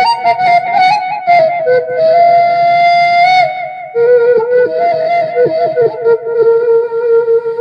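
Sundanese suling bamboo flute playing a slow, ornamented melody. It holds a long high note about two seconds in, then drops to a lower held note with quick grace-note dips.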